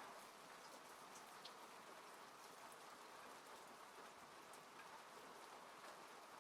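Faint, steady rain falling on a car, heard from inside the cabin, with scattered single drops ticking.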